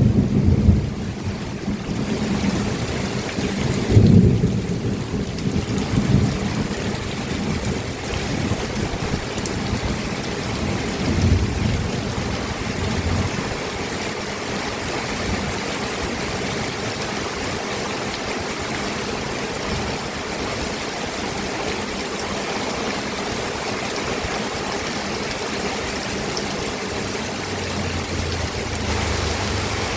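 Steady rainfall with low rumbles of thunder that swell several times in the first half and then die away, leaving only the even hiss of the rain.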